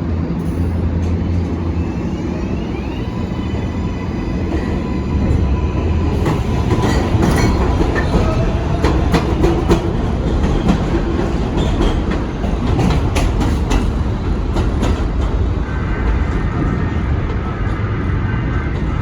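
New York City subway train running through the station: a steady rumble of wheels on rail, with a run of sharp clacks over the rail joints from about six to fifteen seconds in and a faint high wheel squeal.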